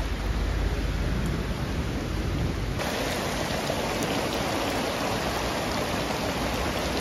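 Heavy rain pouring onto flooded grass and a tent's rainfly, a steady hiss of splashing water. About three seconds in it changes to a fuller, denser hiss.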